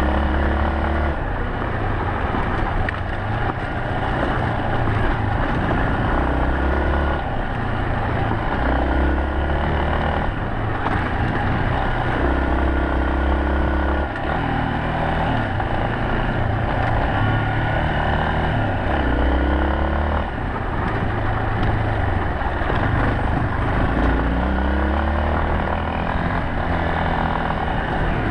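Yamaha Serow 250's single-cylinder four-stroke engine running under way, its pitch climbing in repeated short rises and dropping back as the bike is throttled and shifted, over a steady rush of road and wind noise.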